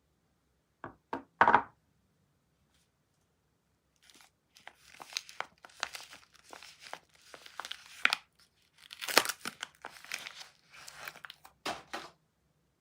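Soap packaging being unwrapped by hand: a few sharp knocks about a second in, then several seconds of crackly crinkling and tearing of the wrapper.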